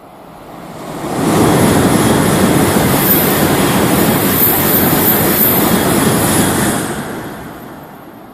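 Tokaido Shinkansen train passing through the station at high speed: a rushing noise that builds quickly over about a second, holds loud for about five seconds, then fades away.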